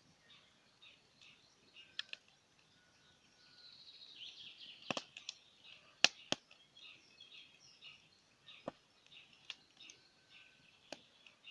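Wood campfire crackling, with a handful of sharp pops from the burning logs, the loudest about six seconds in. Birds chirp and twitter continuously behind it.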